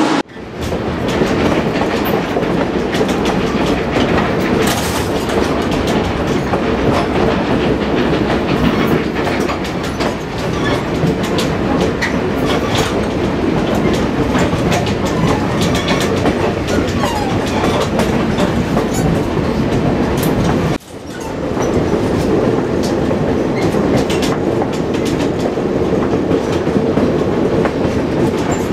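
Passenger train rolling along: a steady rumble with a constant clatter of steel wheels over rail joints. The sound drops out briefly just after the start and again about two-thirds of the way through, then picks straight back up.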